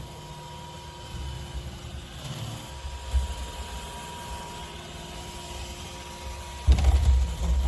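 Robot vacuum running with a steady motor whine over a low rumble, and a louder low rumble near the end.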